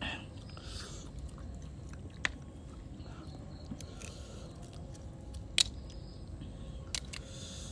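A person chewing clams close to the microphone: soft chewing with a few sharp, separate clicks, the loudest about five and a half seconds in.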